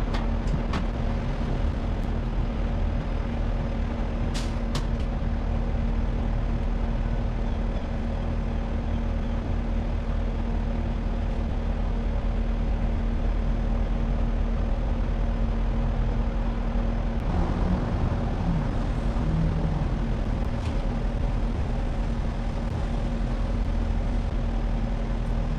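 A truck engine running at a steady speed: a constant mechanical hum with a fixed tone, and a few faint clicks.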